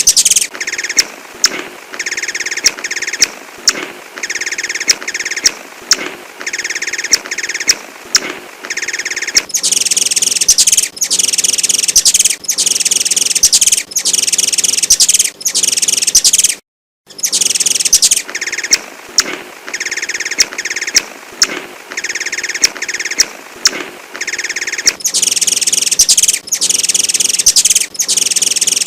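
A sunbird ('kolibri') singing: a fast, high-pitched twittering song broken by sharp chirps about once a second. There is a brief dropout a little past halfway.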